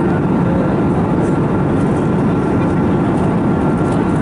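Steady cabin noise of an Airbus A321neo in flight: a constant low rumble of engines and airflow with a faint steady whine.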